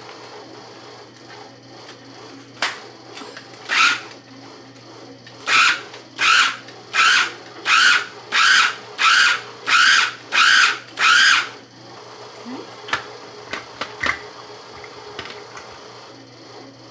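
Electric food chopper run in short pulses: one burst, then nine quick bursts of about half a second each, roughly one every 0.7 s, pulsed to keep the chicken coarser, with a few light clicks around them.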